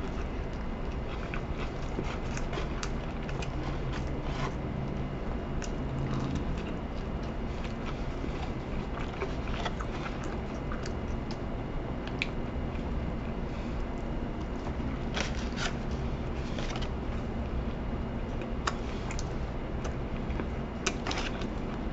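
A person chewing a fried chicken sandwich topped with Pringles crisps: irregular crunches and clicks of the crisps and breading throughout, over a steady low room hum.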